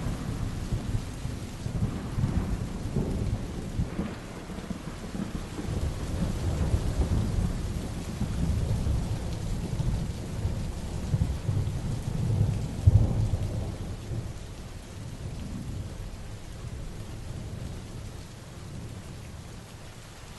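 Heavy rain falling steadily, with low thunder rolling underneath. The rumble swells several times, loudest about two-thirds of the way in, then dies away near the end.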